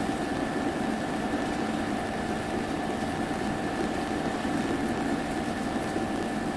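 Steady mechanical hum with two constant whining tones, unchanging throughout.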